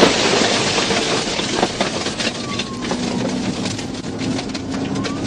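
Patrol car driving fast on a gravel road, heard from inside the cabin: a steady loud rumble of tyres and engine with a rapid clatter of stones striking the car.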